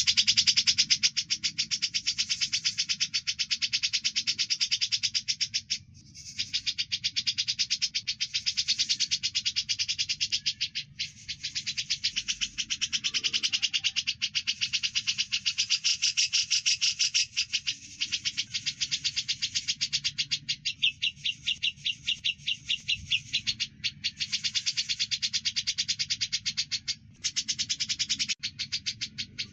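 Cucak jenggot (grey-cheeked bulbul) and Eurasian tree sparrow calls mixed together: a fast, almost unbroken run of sharp chirps and chatter, pausing briefly a few times.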